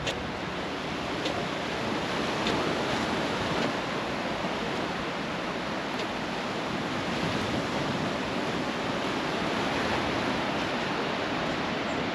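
Sea waves washing steadily onto the beach, a continuous surf hiss with a few faint ticks.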